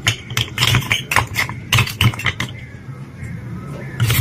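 Small hard pieces of clay pot clicking and clattering against each other and a bowl as they are put in. It is a quick, irregular run of sharp clicks that eases off for a moment and picks up again near the end.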